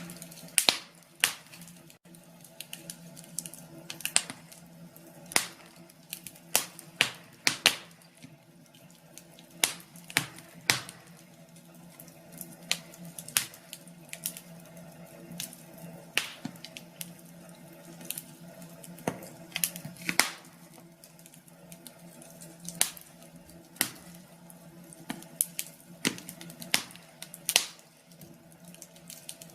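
Wood fire crackling, with sharp irregular pops and snaps several times every few seconds over a faint steady low hum.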